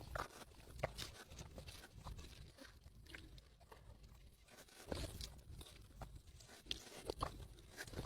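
Close-miked chewing with irregular crunches and wet clicks of food being bitten and eaten, louder crunches a little under a second in, around five seconds in and around seven seconds in.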